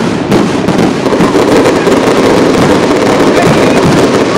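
Fireworks display barrage: many aerial shells bursting in rapid succession, the bangs running together into one continuous loud din.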